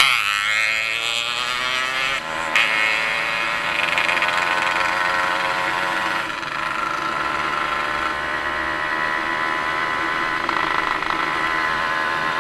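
A vehicle engine settling from a rev back to a steady idle within the first second or so, then idling evenly. There is a brief knock about two and a half seconds in.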